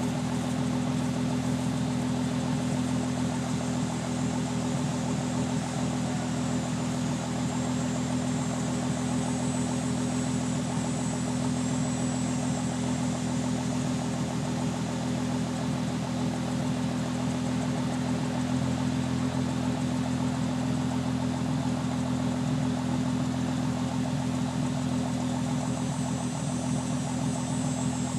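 Fourth-generation Nissan Maxima's V6 idling steadily at the tailpipe, burning off a Sea Foam engine treatment.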